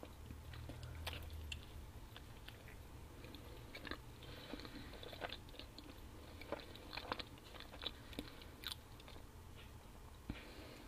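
A person chewing and biting pizza: irregular short crackles and clicks, busiest in the middle stretch, over a low steady hum.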